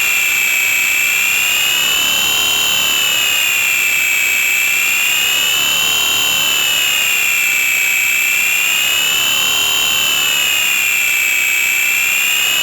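Electronic feedback noise music: a loud, piercing whistle-like tone that wavers slowly up and down. Underneath is a hiss with sweeping glides that dip and rise again about every three and a half seconds.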